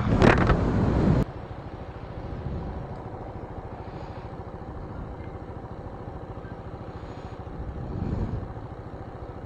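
Keeway Cafe Racer 152's single-cylinder engine idling steadily. It follows a loud rush of noise in the first second that cuts off abruptly, and the engine note swells briefly near the end.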